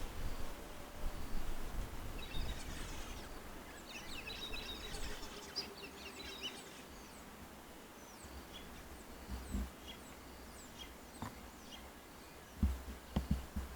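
Small birds calling in a quick burst of high chirps and chatter for a few seconds, then a few scattered faint calls. Low rumbling near the start and several sharp low thumps near the end.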